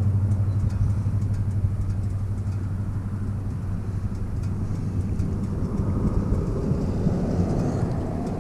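Harley-Davidson V-twin motorcycle engine running steadily, a constant low hum with a little added noise building near the end.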